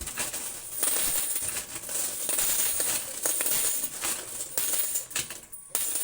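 Coins and chips clattering as they are pushed off a coin pusher's ledge and spill into the tray: a dense, continuous rattle of many small clinks, with a brief break near the end.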